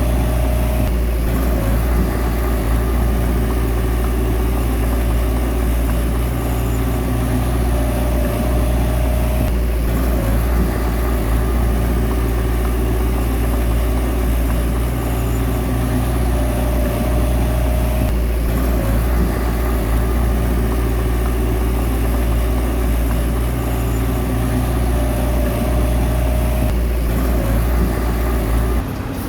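Bulldozer's diesel engine running steadily, with a brief higher whine that returns about every nine seconds.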